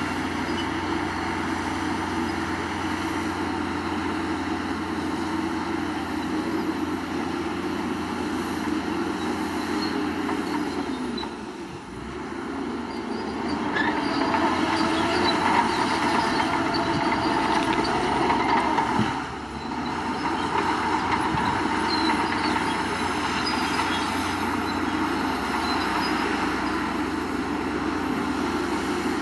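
Heavy diesel earthmoving machinery working: an engine runs steadily, eases off briefly about eleven seconds in, then works harder for several seconds before a short drop near nineteen seconds.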